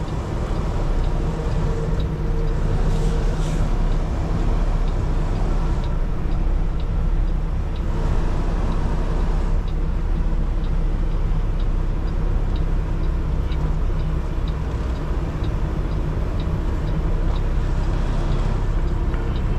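Kenworth T680 semi-truck's diesel engine running low and steady during slow manoeuvring, with a faint regular ticking from about a third of the way in.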